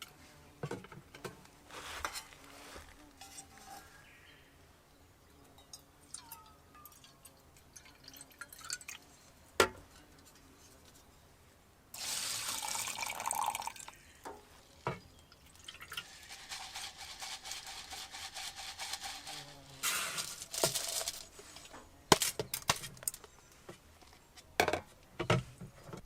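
Water being poured into a container in two spells, with scattered clinks and knocks of camp cookware being handled in between.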